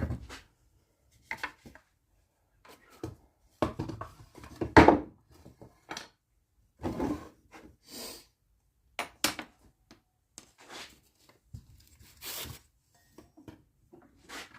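Pieces of wood and hand tools being handled on a workbench: irregular knocks, taps and brief rubbing scrapes, the loudest knock about five seconds in.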